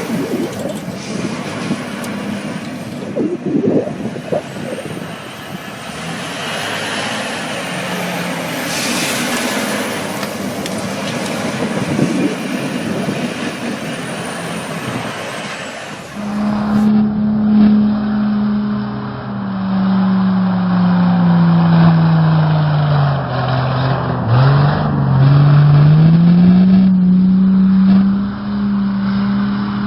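Truck engine and road noise in the first half. After a cut about halfway, a truck engine runs with a steady hum that drops in pitch and then climbs back as the revs fall and rise again.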